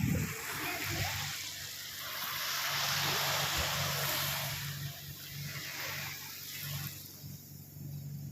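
Sea waves washing onto a beach: a hiss that swells for a couple of seconds, falls back and swells again more weakly. A steady low hum runs underneath.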